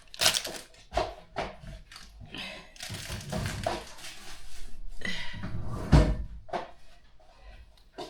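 Kitchen handling noises: a series of knocks and clatters of dishes and utensils, with scraping and rustling, and one sharp thump about six seconds in.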